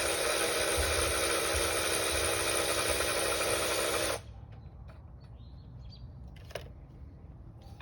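A handheld power tool runs steadily and cuts off about four seconds in, its pitch dropping as it stops. Then come a few light clicks of parts being handled.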